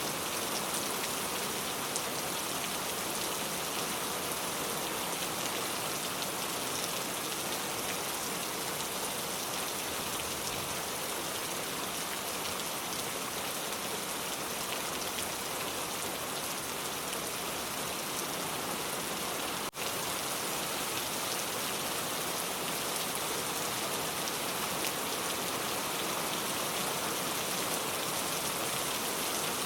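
Steady rain falling, an even hiss of many drops, with a momentary dip in level about two-thirds of the way through.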